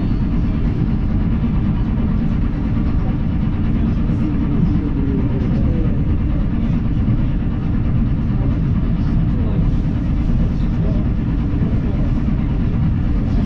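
Steady low rumble of a moving electric suburban train (elektrichka), heard from inside the carriage: wheels running on the rails, even and unbroken throughout.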